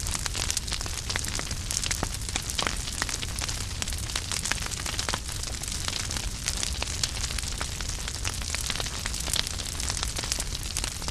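Wood fire crackling: a dense run of quick snaps and pops from the burning logs over a steady hiss, with a low rumble of the flames beneath.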